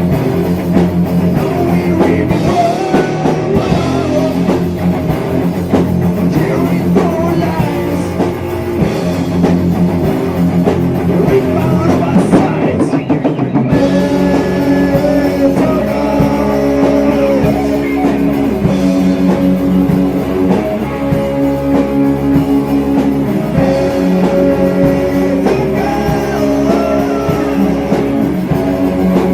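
Heavy metal band playing: distorted electric guitars and drum kit with a singing voice. The band shifts to a heavier, fuller section about fourteen seconds in.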